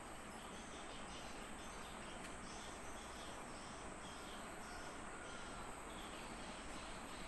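Faint outdoor ambience of insects, with a steady high-pitched chorus and short chirps repeating over a low background hiss.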